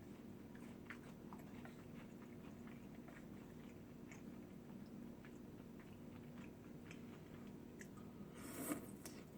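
Close-up mouth sounds of someone eating: chewing and biting, with small soft clicks and crunches. There is a brief, louder noise about eight and a half seconds in.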